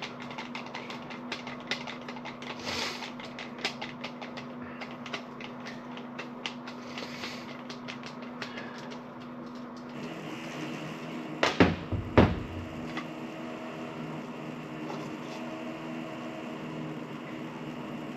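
Small clicks and taps of a float valve's parts being handled as it is taken apart. About ten seconds in a steady hum starts, and a few loud knocks follow just after it.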